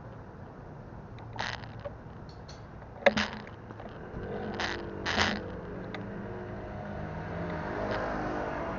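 City street traffic heard from a bicycle: a few short sharp rattles and clicks, the loudest about three seconds in, then a motor vehicle's engine humming close by, growing a little louder near the end.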